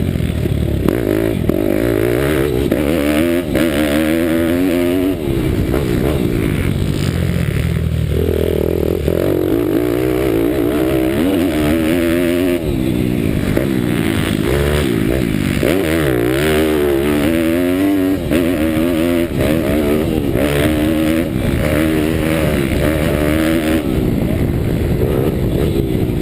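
Bucci Moto pitbike's 190 cc Daytona Anima single-cylinder engine revving hard, its pitch climbing and dropping over and over as it accelerates, shifts and backs off.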